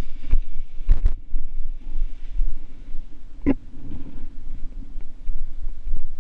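Strong gusty wind buffeting the microphone, a low rumble that rises and falls, with a few sharp knocks, the loudest about three and a half seconds in.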